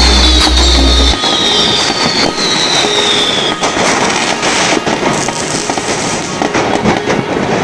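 New Year's Eve street fireworks going off all around: a dense crackle of bangs, with several whistling rockets falling in pitch over the first three and a half seconds. A deep steady rumble cuts off about a second in.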